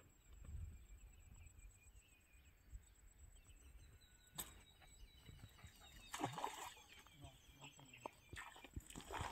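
Faint outdoor background with small birds chirping over and over, and a few brief louder noises in the second half: a sharp click, then short rustling or splashing sounds.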